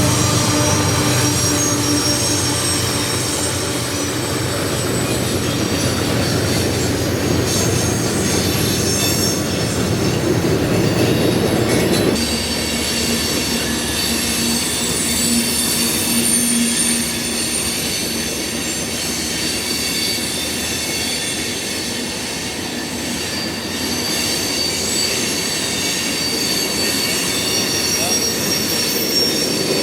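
Freight train cars rolling past with high-pitched wheel squeal over a steady rumble of wheels on rail. The sound changes abruptly about twelve seconds in.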